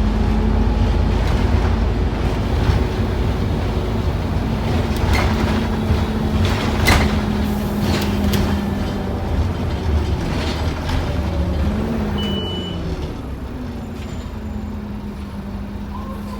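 Scania N230UD OmniCity double-decker bus running under way, heard from inside: a steady engine and driveline drone, with clicks and knocks of rattling body panels and fittings. The engine note dips about twelve seconds in, and the drone is quieter and steadier near the end as the bus eases off.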